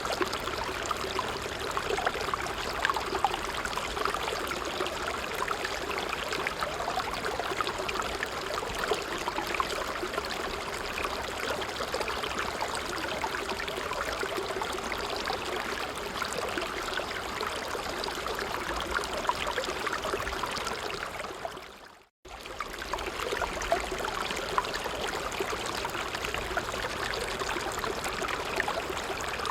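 A stream flowing and trickling steadily. About 22 seconds in, it fades to silence for a moment and comes straight back.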